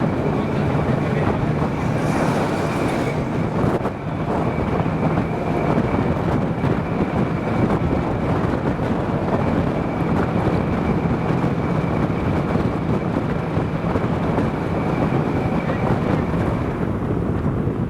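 Tram running along the rails: a steady rumbling ride noise with a steady high whine that stops near the end, and a brief hiss about two seconds in.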